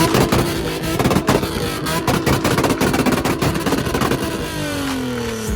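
Car engine held at high revs with a rapid crackling chatter, then the revs fall away over the last second.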